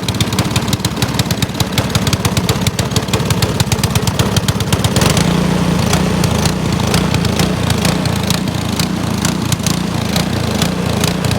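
DB7006 21-inch snowblower's small gasoline engine running steadily with rapid, even firing pulses. Its note changes about five seconds in, the low hum growing stronger. The engine is running again after old fuel was blown out of the tank and gummed-up carburetor.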